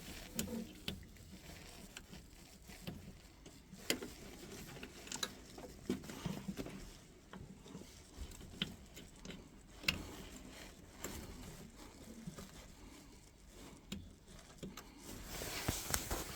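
Faint, scattered clicks and light knocks of boiler parts and clips being handled and fitted back in place. A soft hiss builds near the end.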